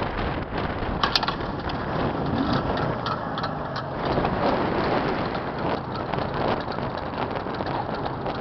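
Jawa 634 two-stroke twin engine running as the motorcycle is ridden, a new engine being broken in. There is a sharp click about a second in.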